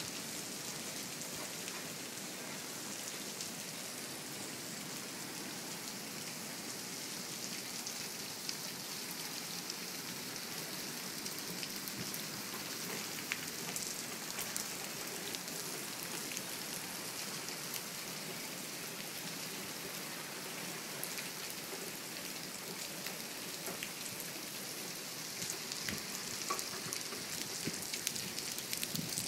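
Heavy rain falling steadily, a constant hiss with drops pattering on an umbrella overhead. It grows louder and more uneven over the last few seconds.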